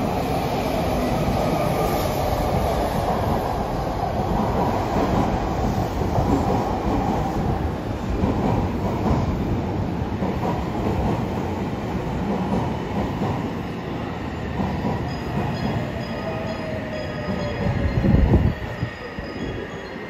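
Odakyu 1000 series electric train running past a station platform: steady rolling noise of steel wheels on rail, with clicks over the rail joints. In the second half a slowly falling whine runs under it, and a brief louder rumble comes near the end.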